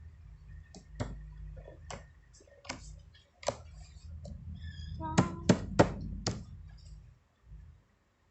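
Handling noise: a series of sharp taps and knocks, three loud ones in quick succession about five seconds in, over a low rumble that stops near the end.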